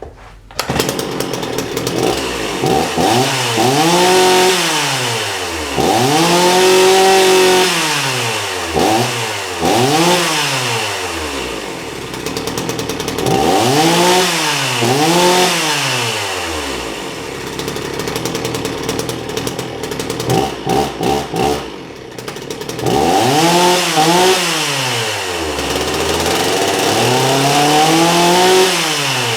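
Sachs Dolmar 120 Super vintage two-stroke chainsaw running, revved up and back down to idle again and again, with a briefly uneven idle between revs.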